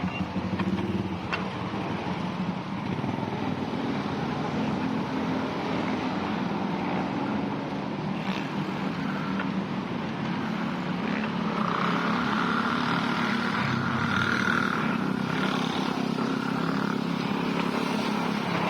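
Road traffic: motor vehicle and motorcycle engines running steadily. A higher whine joins about twelve seconds in and fades a few seconds later.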